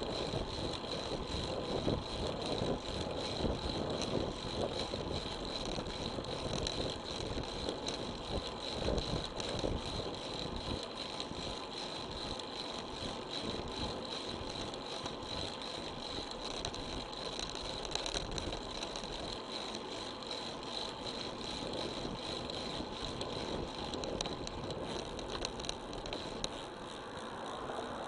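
Riding noise from a road bike heard through an action camera carried on the ride: continuous wind and road noise with small rattles, and a steady high whine.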